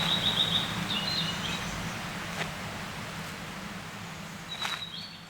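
Forest ambience: a small bird sings a short high trilled phrase at the start and again near the end, over a steady low hum and hiss. The whole sound fades gradually.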